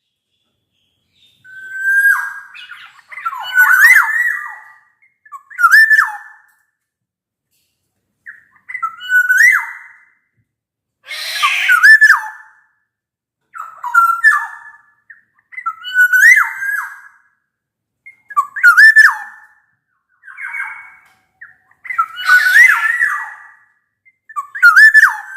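Black-naped oriole singing: short, loud, fluty whistled phrases that slide up and down in pitch, about a dozen of them, one every second or two with silent gaps between. A harsher, rasping call comes about eleven seconds in and again a little before the end.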